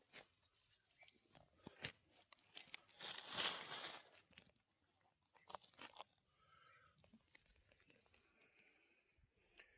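Dry forest-floor litter crunching and crackling in scattered sharp clicks, with a longer rustle about three seconds in and a few more crunches a couple of seconds later.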